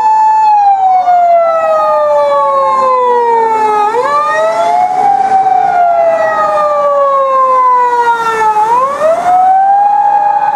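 Japanese police emergency-vehicle sirens wailing: the pitch falls slowly over about four seconds, then sweeps quickly back up, twice. A second siren overlaps out of step with the first.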